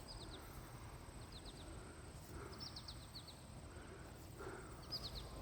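Faint bird chirping: short clusters of quick, high, downward notes repeating every second or so over a steady outdoor hiss.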